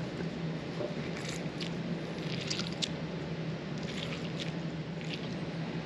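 A lemon squeezed by hand, with small wet squishes and drips of juice, over a steady low hum.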